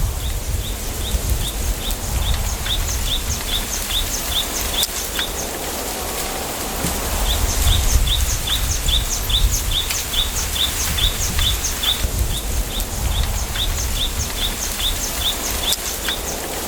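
A bird calling in a long series of short, high, down-slurred notes, about two to three a second, breaking off about five seconds in and starting again a couple of seconds later. Underneath is the steady rush of wind through a bamboo grove and a low wind rumble.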